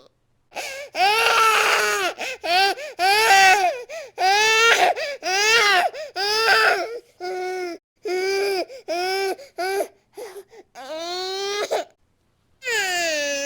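An infant crying hard in a string of short, arching wails, with brief catches of breath between them. Near the end there is a pause, then one long drawn-out wail.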